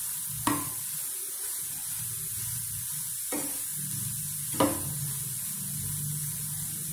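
Grated carrots sizzling in hot ghee in a kadhai while a steel spatula stirs and tosses them, knocking against the pan three times, loudest near the middle.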